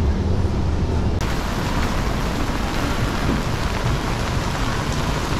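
Steady rain hissing on the street, suddenly growing brighter and louder about a second in.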